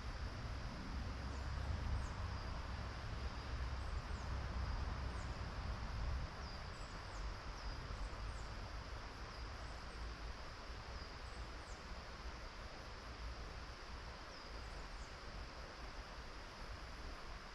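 Outdoor ambience of insects: a steady high-pitched trilling drone, with short, high, falling chirps repeating about once a second. A low rumble underneath eases off about six seconds in.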